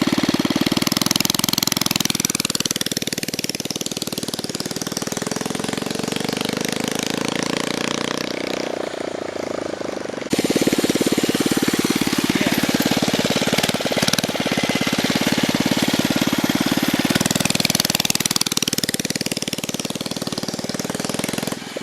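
Predator 79cc single-cylinder four-stroke engine on a motorized scooter running under load. Its pitch rises and falls as the scooter speeds up and slows down, with an abrupt jump in the sound about ten seconds in.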